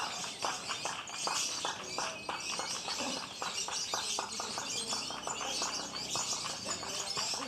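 Lovebirds chattering in a dense, unbroken stream of high chirps, with rapid sharp ticks running through it.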